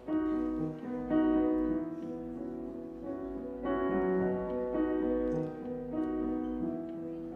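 Live piano intro to a slow pop song: held chords that change every one to two and a half seconds.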